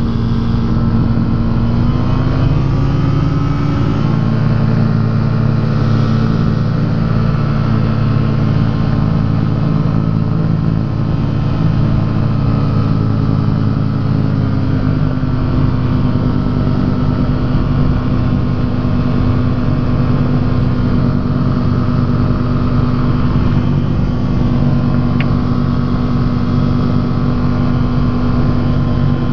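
Rotax engine and propeller of a Quad City Challenger ultralight running at high power, the engine note rising about two seconds in and stepping up a little again about halfway through, with wind rumbling on the microphone in the open cockpit.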